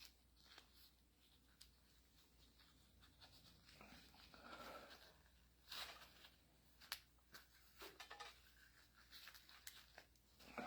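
Faint hand work on a hydraulic pump: light scraping and rustling with a few sharp small clicks in the second half, as cut O-ring cord is pressed into the pump cover's gasket groove.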